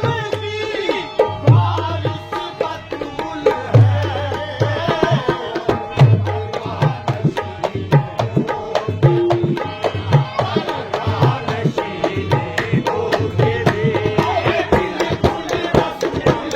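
Qawwali music led by a dholak hand drum, with deep bass strokes about every two seconds and quick treble strokes in between, under a melodic accompaniment.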